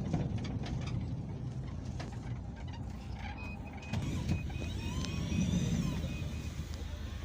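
Steady low engine and road rumble inside a moving Peugeot Boxer minibus. About halfway through, a rapid series of short high beeps sounds for about three seconds.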